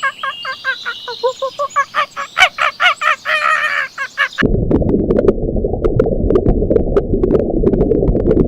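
Domestic fowl calling rapidly, several calls a second. About four and a half seconds in it cuts off abruptly to a dense low rumbling noise with scattered clicks.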